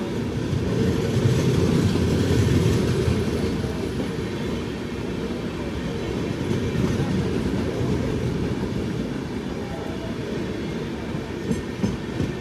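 Sampoorna Kranti Express passenger coach running along the track: a steady low rumble of wheels on rails that swells louder a second or so in. A few sharp clicks come near the end.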